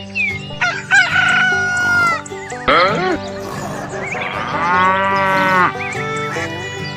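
Rooster crowing over background music, one crow about a second in and another arching call around five seconds.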